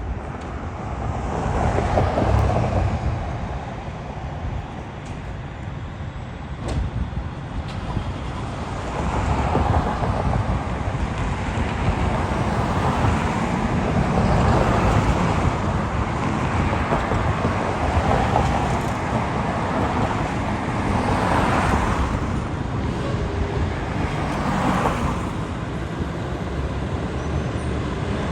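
Road traffic: a run of vehicles passing close by, the noise swelling and easing several times as each goes past.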